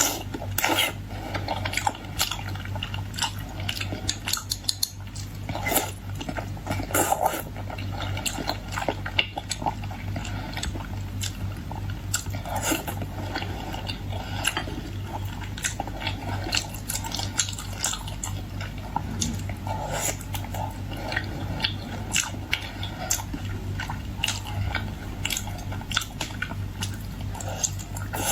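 Close-miked eating: utensils repeatedly clicking and tapping against dishes, mixed with biting and chewing. A steady low hum runs underneath.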